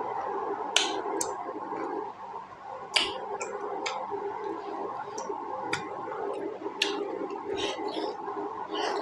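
Close-miked chewing of a juicy pork momo: wet mouth clicks and lip smacks come irregularly, about one a second, over a steady hum.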